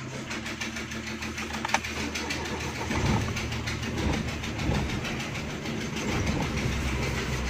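Suzuki Khyber's 1000 cc three-cylinder engine running steadily, rising a little a few times as the clutch is let out. It runs smoothly with no jerk, now that a broken engine mount has been replaced.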